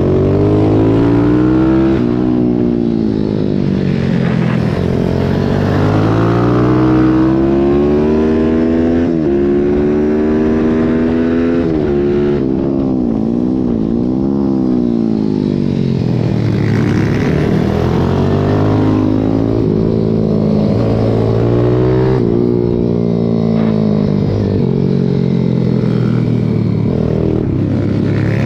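Racing pit bike engine heard close up from on the bike, revving hard with its pitch climbing and dropping again and again as it is run up through the gears and eased off, with a quick rapid up-and-down swing about halfway through.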